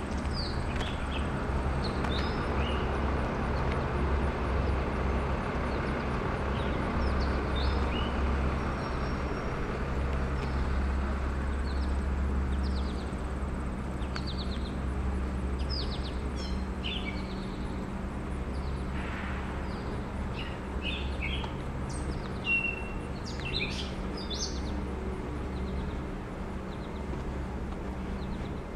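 Songbirds chirping in short, scattered calls, busier in the second half, over a steady low outdoor hum.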